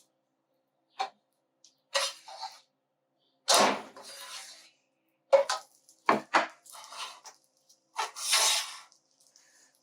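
Kitchen dishes and utensils clattering: a series of separate knocks and clinks, with longer scraping sounds about three and a half and eight seconds in.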